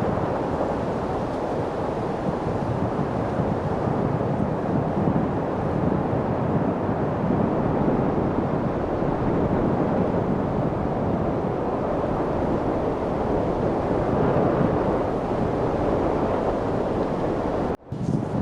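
Light wind blowing steadily, an even rushing noise without distinct gusts; it drops out for a split second near the end.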